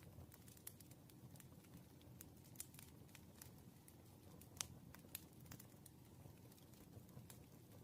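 Faint, irregular small ticks and taps of pen and paper at a study desk, over a low room hum; one tap about four and a half seconds in stands out.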